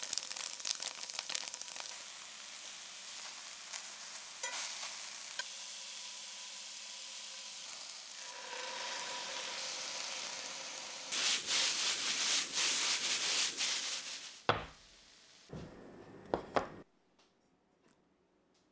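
Oil sizzling in a cast-iron frying pan as tofu cubes fry, with clicks of metal tongs turning them, then a stir-fry of vegetables and tofu sizzling louder as it is stirred. Near the end the frying stops and a few soft knocks follow, then it goes quiet.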